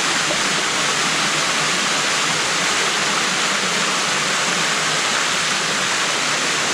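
Waterfall water rushing steadily and loudly over the rock, heard close up.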